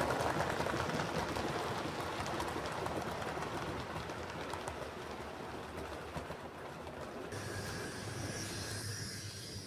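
7mm-scale model train running on the layout, its rolling rush and fine ticking slowly fading. About seven seconds in, a steady low hum and a high hiss take over.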